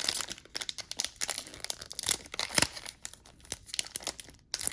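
Foil wrapper of a 1991-92 SkyBox basketball card pack being torn open and crinkled by hand, in irregular crackling bursts; the wrappers are hard to open.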